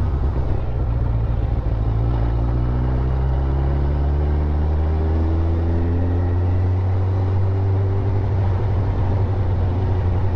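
Motorcycle engine running on the move. Its note rises over the first few seconds as the bike speeds up, then holds steady.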